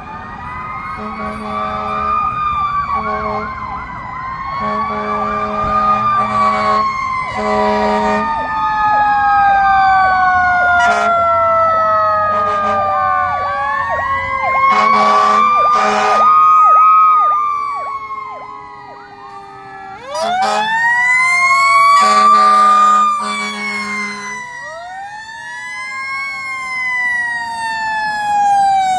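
Fire truck sirens wailing, several at once, in slow rising and falling sweeps with stretches of fast warble, cut through by repeated short blasts of a deep horn.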